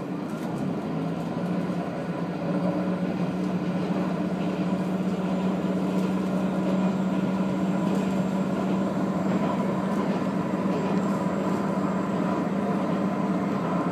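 Diesel railcar running at speed, heard from inside the cabin: a steady engine drone over the running noise of wheels on rail, growing a little louder over the first two seconds and then holding.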